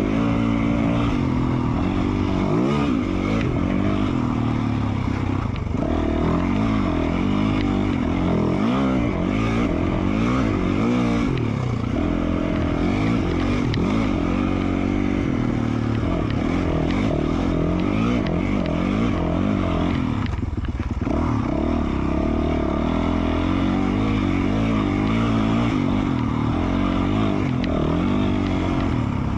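2020 Yamaha YZ450F single-cylinder four-stroke dirt bike engine with an FMF Q4 slip-on exhaust, under way on a trail ride. The revs rise and fall continually as the throttle is worked.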